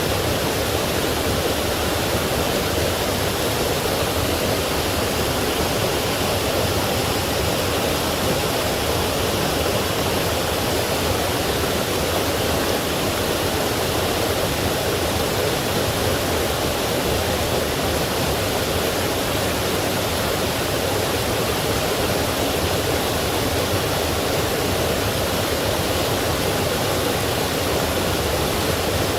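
Forest stream and small waterfall flowing: a steady, unbroken rush of water.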